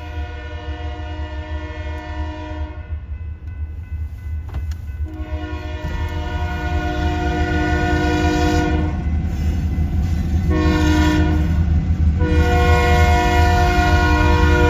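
Diesel locomotive air horn sounding the grade-crossing signal: two long blasts, a short one, then another long one. Under it, the low, steady rumble of the locomotive grows louder as it approaches.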